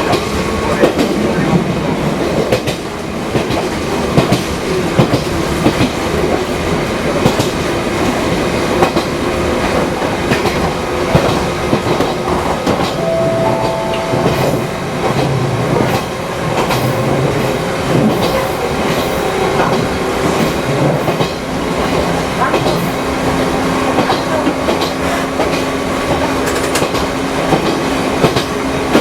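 Fukui Railway 200-series electric train running, heard from on board, with wheels clacking over the rail joints over a steady rumble. A brief tone sounds about halfway through, and a steady low hum sets in near the end.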